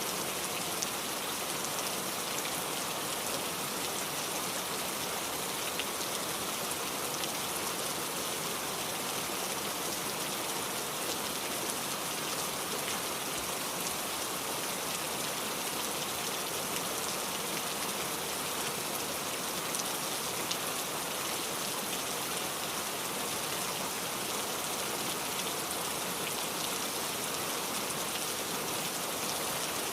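Steady rain falling, with the patter of drops on a surface. It holds even throughout, without thunder.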